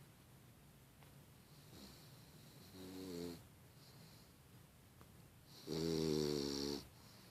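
English bulldog puppy snoring in her sleep: a softer snore about three seconds in, then a louder one about a second long near the end.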